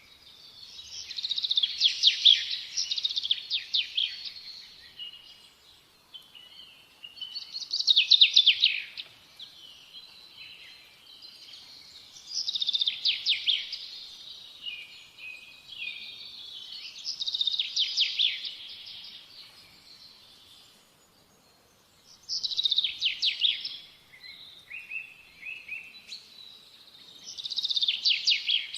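A songbird singing in repeated phrases about every five seconds, each a fast run of high notes, with softer chirps in the gaps.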